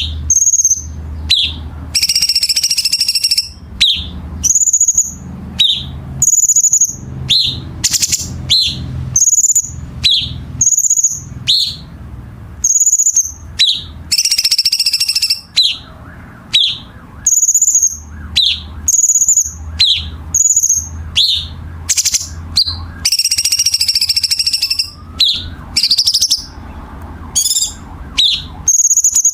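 Cucak cungkok songbird singing a fast string of short, sharp, high whistled chirps with no letup. These are broken three times by longer harsh, raspy passages, the rough 'kasaran' notes used as masteran material. A low hum runs underneath.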